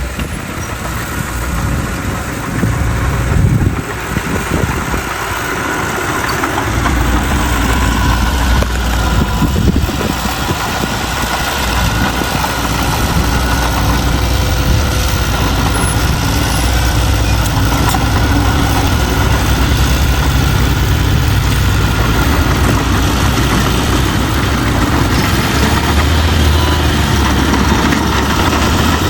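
Heavy diesel engine of earthmoving machinery running continuously, building in level over the first few seconds and settling into a steady low drone from about seven seconds in.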